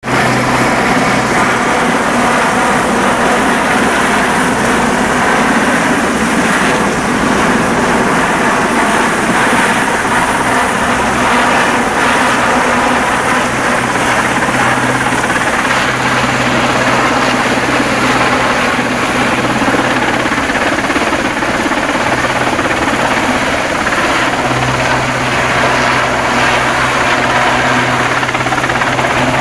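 Rescue helicopter's rotor and engine running loud and steady, with a constant low hum under a wide noisy wash.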